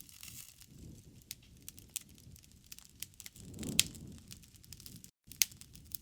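Wood fire crackling in a fireplace: irregular sharp pops and snaps over a soft low rumble of flames, with a louder pop a little before four seconds in and another about five and a half seconds in.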